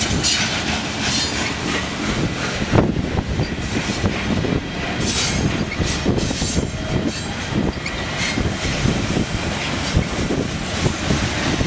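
Covered hopper cars of a freight grain train rolling past close by: a steady rumble of wheels on rail, broken by repeated clicks and knocks from the wheels and trucks, with brief high squealing about five seconds in.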